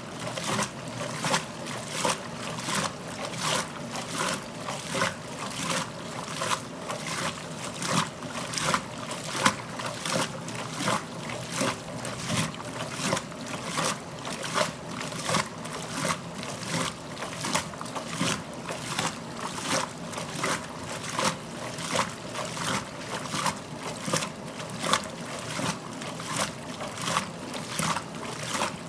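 A 1969 Westinghouse top-loading washing machine agitating its wash water, its ramp action agitator sloshing and splashing the load in a steady, even rhythm of strokes.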